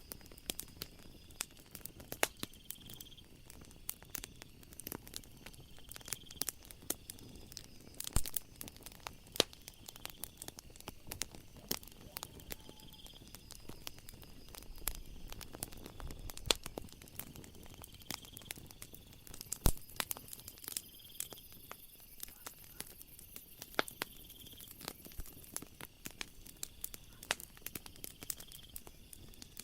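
Wood fire crackling, with irregular sharp pops and snaps and one loud snap about two-thirds through. A short high chirp repeats every two or three seconds behind it.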